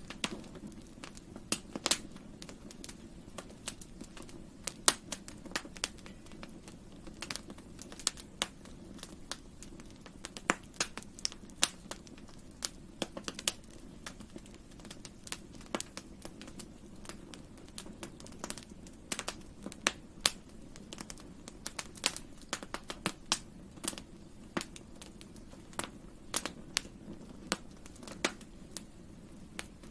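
Wood campfire crackling: irregular sharp pops and snaps, several a second at times, over a steady low sound of the burning fire.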